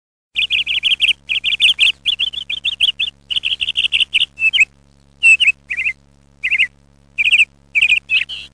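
A small bird chirping: fast runs of high, quick chirps for about four seconds, then short separate bursts of chirps with gaps between them, cutting off suddenly at the end.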